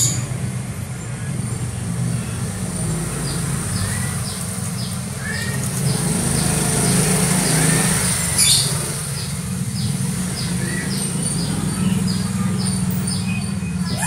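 Small bird chirping in short, quick, high notes over and over, above a steady low hum, with one sharp click a little past the middle.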